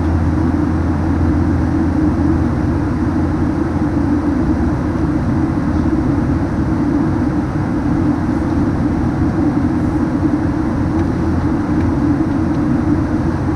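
Steady in-flight cabin noise of a Boeing 737-900: the rumble of its twin CFM56-7B engines and airflow over the fuselage, an even drone with no changes.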